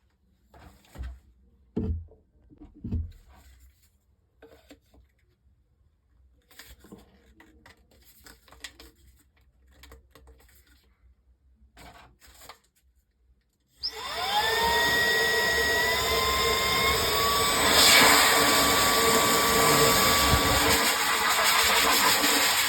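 A few clicks and knocks, then about fourteen seconds in the MECO 4-in-1 cordless air blower switches on: its motor spins up with a rising whine that levels off into a high steady tone over a loud rush of air.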